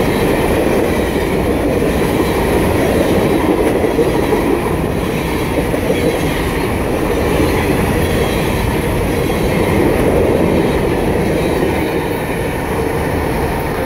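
Covered hopper cars of a long freight train rolling past close by, with a steady rumble and rattle of steel wheels on the rails. The noise eases slightly near the end as the last car goes by.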